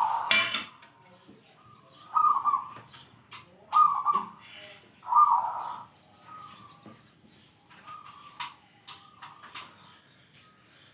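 Zebra dove (perkutut) singing a series of cooing phrases with a deep, full "kung" note; four loud phrases in the first six seconds, then fainter ones. Sharp clicks between the phrases.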